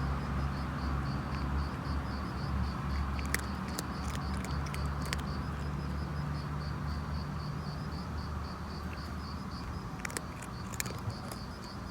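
Cricket chirping in a steady rhythm of short high pulses, about two to three a second, over a low rumble, with a few faint clicks.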